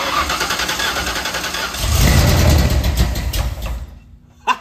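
Carbureted Ford 5.0 V8 in a drag van being started: the starter cranks it and it fires about two seconds in, running loudly through open headers before dying away near the end.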